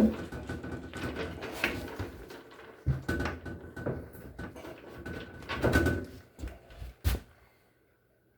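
Irregular knocks, clatter and scraping of hand tools and metal parts being handled while working on a washing machine, with a sharp knock about seven seconds in.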